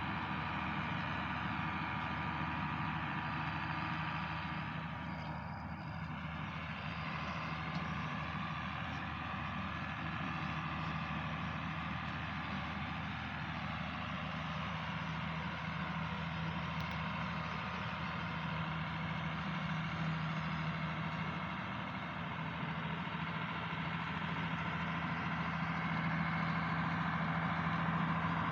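Farm tractor's diesel engine running at a steady speed.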